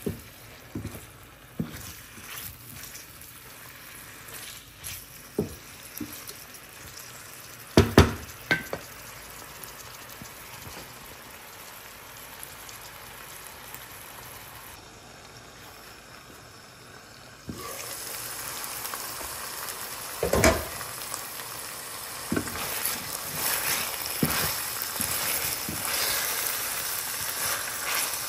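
Chicken pieces with onion and spices sizzling in oil in a stainless steel pan, stirred with a wooden spatula that knocks against the pan now and then. The loudest knocks come around a third of the way in and again about two-thirds in. The sizzle grows louder about two-thirds through.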